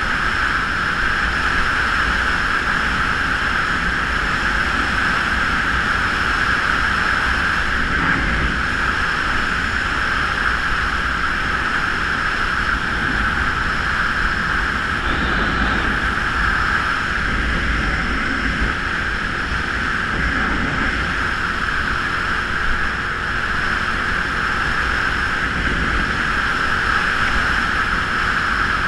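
Geon Scrambler 250 motorcycle being ridden at a steady speed: the engine running evenly under a steady rush of wind on the microphone.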